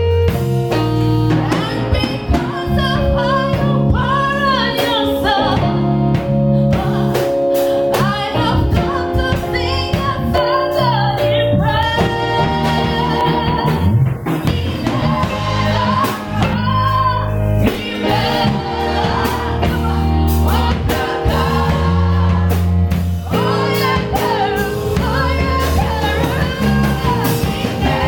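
Gospel song sung by a church choir with band accompaniment: sung melody over steady bass notes and drums keeping a steady beat.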